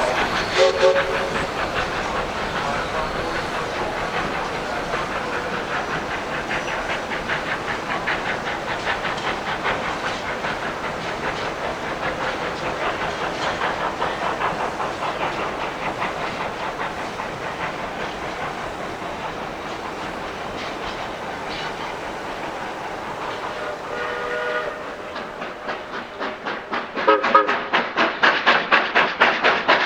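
Narrow-gauge steam train running on the rails with a steady clickety-clack. Short whistle-like tones sound about a second in and again near the end, and the last few seconds bring a louder, regular pulsing beat.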